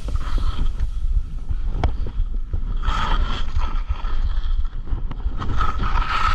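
Wind buffeting the microphone in a snowstorm: a steady low rumble with scattered small clicks, and a brief higher-pitched sound about three seconds in and again near the end.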